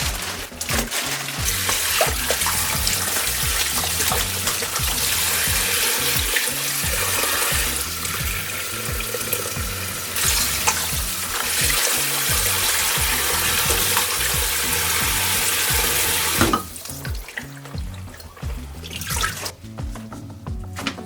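Water running steadily from a kitchen tap into a sink, then cut off about four-fifths of the way through. Background music with a steady repeating bass runs underneath.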